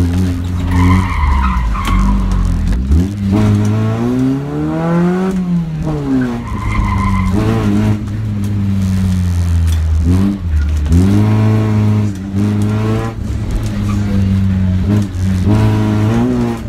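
Honda Civic EF's 1.5-litre D15B four-cylinder engine, driven hard: revs climb and drop back several times, with short tyre squeals about a second in and again near the middle. Heard from inside the cabin.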